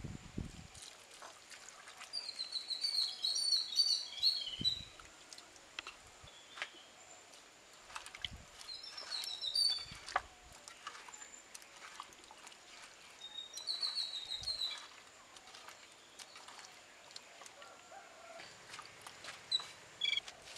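A songbird sings a short chirping phrase three times, several seconds apart, over faint outdoor background. Scattered light clicks and soft knocks come from potatoes being handled in a clay cooking pot.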